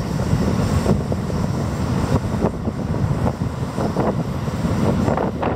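JR Hokkaido electric commuter trains crossing a railway bridge: a steady low rumble, with wheel clicks over the rail joints that grow more frequent from about two seconds in as the trains pass.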